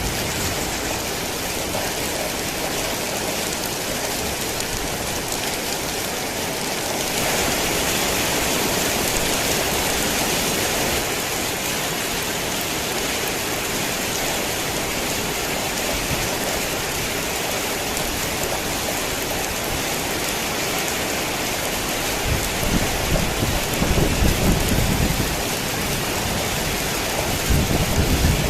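Heavy rain falling steadily, swelling a little about a quarter of the way in, with low rumbles of thunder in the last few seconds.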